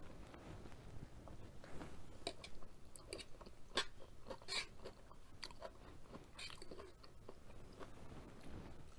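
Faint, close-up chewing of a mouthful of noodles and fried cabbage: soft, irregular mouth clicks.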